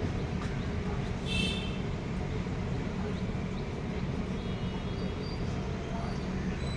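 A small bird gives a short harsh call about a second and a half in, then a few thin high calls later on, over a steady low rumble. These are the alarm calls of a parent bird angry at someone near its nest of chicks.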